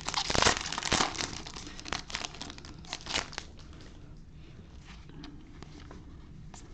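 Plastic wrapper of a baseball card pack crinkling and tearing as it is opened, dense and crackly for the first three seconds or so, then dying down to a few faint clicks.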